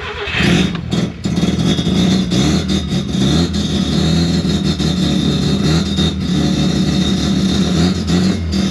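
Mazda RX4's 13B rotary engine firing up and running roughly, dipping twice about a second in and then running unevenly. It runs badly, which the owner puts down to low voltage (about 11 volts) to the Haltech ECU running the ignition.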